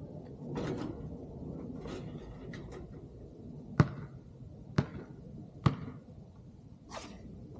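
A basketball bouncing on hard ground three times, about a second apart, in the middle of the stretch. A few short hissing swishes come before and after, over a steady low background noise.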